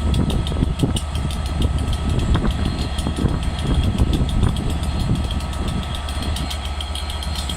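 Class 67 diesel locomotive idling at a standstill: a steady low engine rumble with a fine, even ticking over it.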